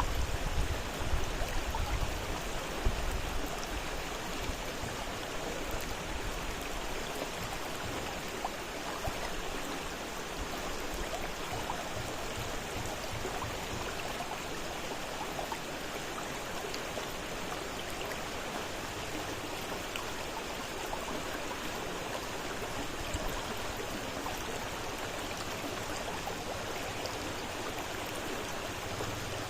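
Fast-flowing river rushing steadily, an even full hiss of moving water. In the first few seconds a few low bumps stand out above it.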